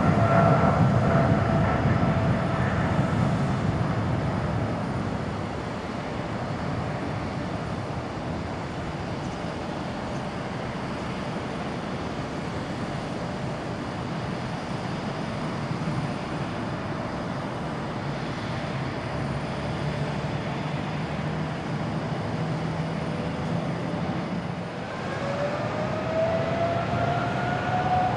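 Jet airliner taking off, a Boeing 777-300ER on its GE90 engines. It is loud at first with a falling whine, then fades over a few seconds to a steady rumble as it climbs away. About 25 seconds in, another airliner's engines spool up with a rising whine as it sets takeoff thrust.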